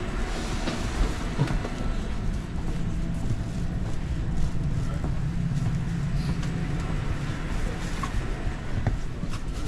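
Steady low rumble and hum inside a commuter train carriage, with a few light clicks and knocks.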